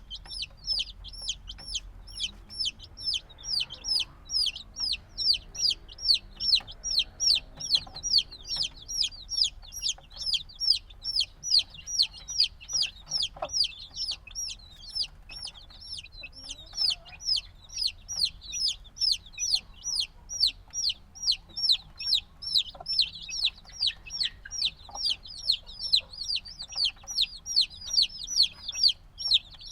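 A group of newly hatched chicks, a few days old, peeping continuously. Their high chirps each drop in pitch and come at about two to three a second with no break. Faint light ticks sound underneath.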